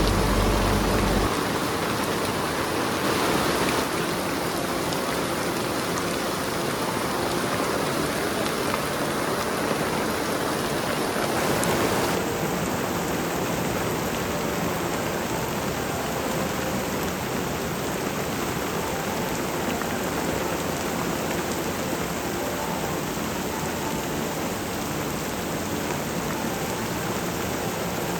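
Steady rain falling, an even hiss with no break; its sound changes a little about twelve seconds in.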